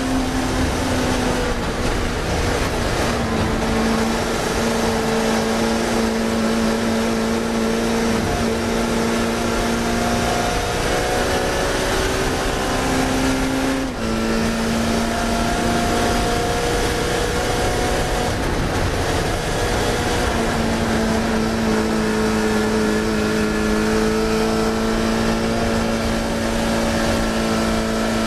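Classic Mini racing car's engine running hard at high revs for the whole stretch, its pitch holding fairly steady and shifting briefly a few times as the driver changes gear or lifts.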